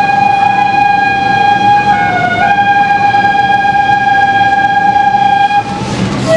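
Awa Odori festival music: a bamboo flute (shinobue) holds one long high note, dipping briefly in pitch about two seconds in and stopping near the end, over a dense noisy backing.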